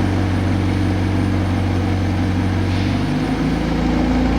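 McLaren 765LT's twin-turbocharged 4.0-litre V8 idling steadily; its note changes about three seconds in.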